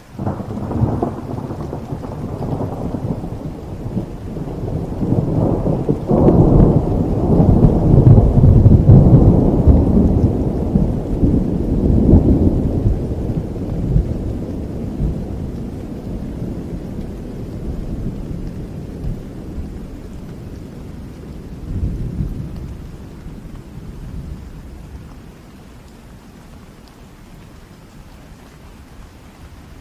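A long roll of thunder over steady rain. It breaks in suddenly, swells to its loudest several seconds in, and rumbles away slowly, with one more swell near the end.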